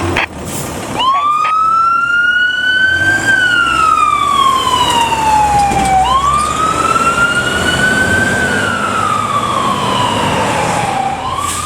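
Fire truck siren in wail mode: two slow cycles, each rising quickly and then falling over about three seconds, with the next rise starting near the end. A vehicle engine hums low underneath.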